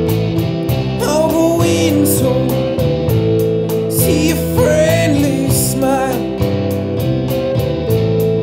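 A rock band playing: guitars and bass holding a steady riff under drums with regular cymbal strikes, and a lead melody line bending and sliding in pitch about a second in, again around four to five seconds, and near six seconds.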